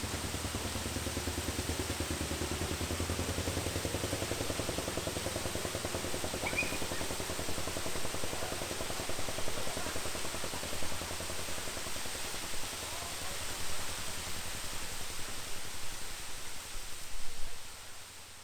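Steady rushing noise of a large park waterfall, with a low fluttering rumble in the first half and a few knocks near the end, fading out at the end.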